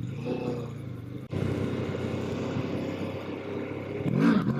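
Kawasaki Ninja 650 parallel-twin engine under throttle in first gear. About a second in the engine gets suddenly louder, and near the end the revs rise sharply as the rider tries to lift the front wheel.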